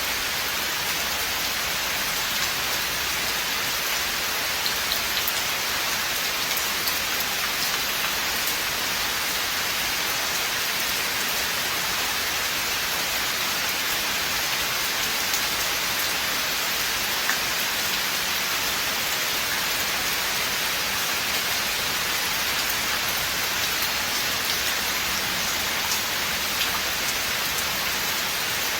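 Steady rain falling on a forest, a dense even hiss with scattered individual drops pattering close by.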